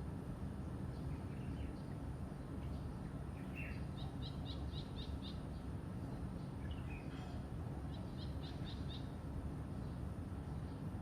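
Birds calling: two short trills of quick repeated high notes about four seconds apart, with scattered chirps between them, over a steady low background rumble.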